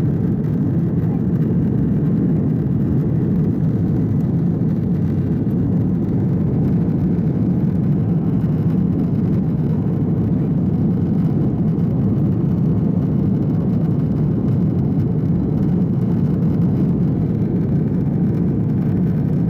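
Cabin noise inside an Airbus A330 airliner in flight: a steady low rumble of its jet engines and rushing air, unchanging throughout.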